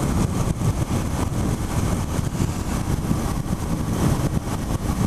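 Wind buffeting over a microphone while riding at highway speed, mixed with the running of a 2007 Suzuki SV650's V-twin engine with a full Yoshimura exhaust, steady throughout.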